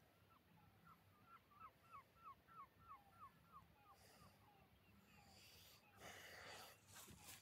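A bird calling faintly: a run of about ten short, falling calls, roughly three a second, that fades out after about three seconds, followed near the end by a brief rush of noise.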